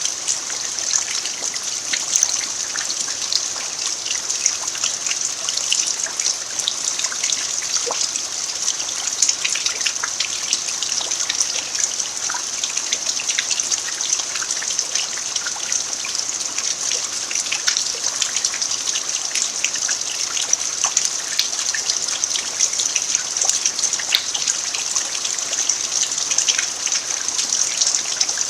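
Steady rain falling on an earthen dirt yard: an even hiss full of small drop taps.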